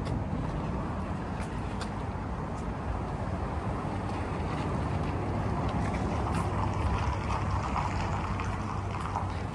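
Street traffic: the steady low rumble of passing road vehicles, swelling as one goes by about six to nine seconds in.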